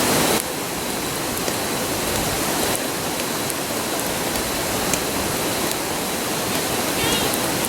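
Steady rushing of a nearby river, with a few faint, scattered crackles from a wood campfire.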